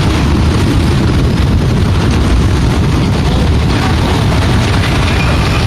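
Mudslide of mud and rock flowing down a mountainside, a steady heavy low rumble with no breaks.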